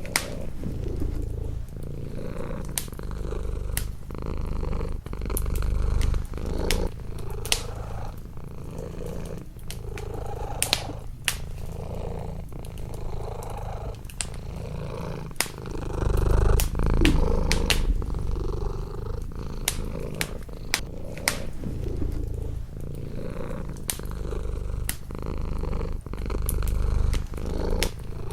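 Domestic cat purring close up, a low steady purr that swells and eases with each breath every couple of seconds. Over it come the scattered sharp crackles and pops of a wood fire.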